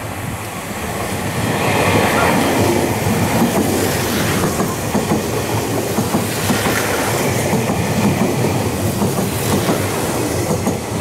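Meitetsu 1000/1200 series Panorama Super electric train running along the platform. The noise grows louder about a second or two in as the cars come alongside, with a rapid clatter of the wheels over the rail joints.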